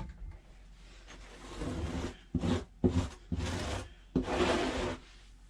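A run of about five rasping, rubbing strokes against a cat's coat while it is being groomed, each lasting a fraction of a second. The longest stroke comes near the end.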